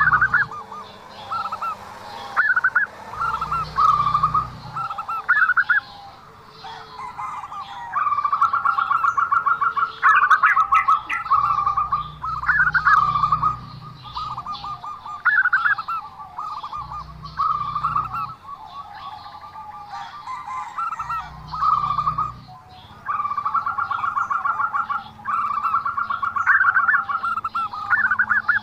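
Zebra dove (perkutut) singing, its song called strange and unusual. Phrases of rapid, trilled cooing notes repeat every second or two, some ending in a quick upward flick.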